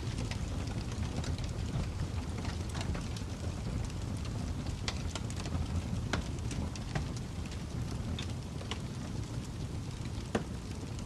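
Fire crackling: irregular sharp pops and snaps over a steady low rumble, with one louder pop near the end.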